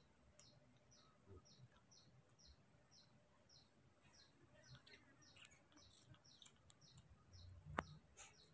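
Near silence with faint, regular high chirps from a small bird, about two a second, and one sharp click a little before the end.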